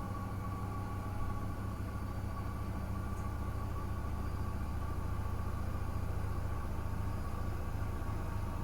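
Miele W1 front-loading washing machine running: a steady low rumble with a constant motor hum over it.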